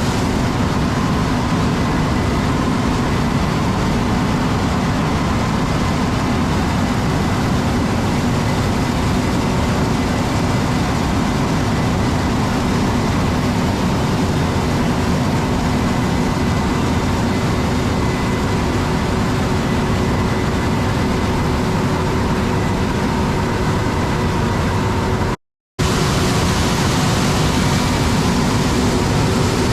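Harvest machinery, a Massey Ferguson combine and tractor, running steadily in the corn field: a constant loud drone with faint steady hum tones. The sound cuts out for a split second about 25 seconds in.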